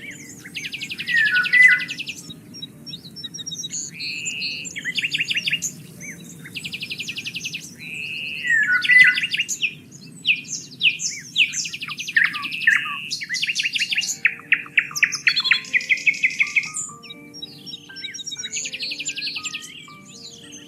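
Several songbirds singing and calling in turn, with fast buzzy trills, chirps and quick down-slurred notes, over a low steady rush of wind.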